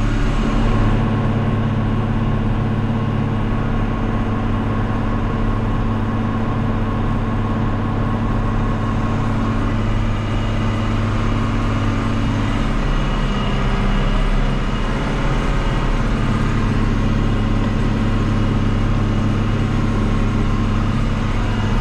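Tractor engine running steadily while pulling a Kuhn round baler through the hay, with the engine tone shifting slightly about halfway through.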